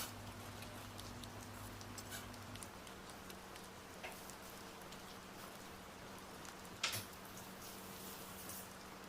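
Light rain pattering steadily, with scattered small ticks and one sharper click about seven seconds in.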